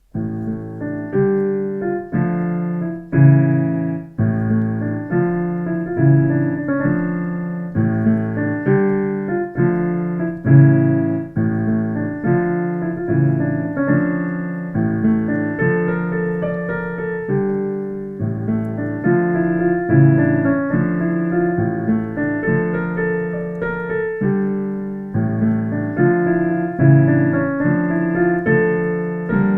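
Solo piano playing a flowing piece, a steady stream of struck notes and chords in the low and middle range, each fading after it is played.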